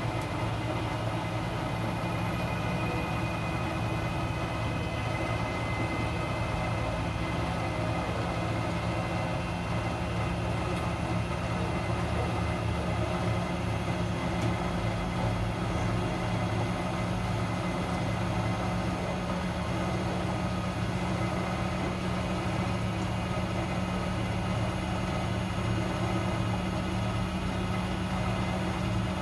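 Miele W 759 washing machine running with a steady low hum that holds the same pitch throughout.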